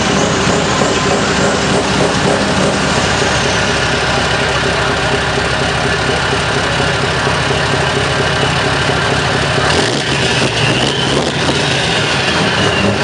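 Scania R620 V8 diesel truck engine idling steadily. The sound changes abruptly about ten seconds in.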